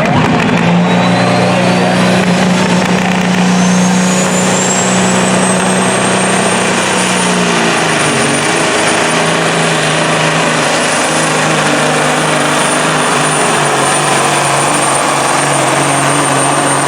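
Pro stock semi truck's diesel engine running hard under load while pulling the sled, with its pitch dropping about halfway through. A high whine climbs over the first several seconds and then holds steady.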